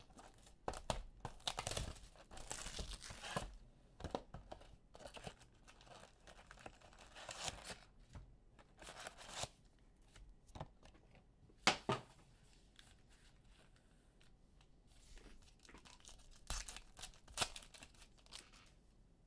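Trading card pack wrappers being torn open and crinkled by hand, with irregular rustles and a few sharp clicks of the cards and wrappers being handled.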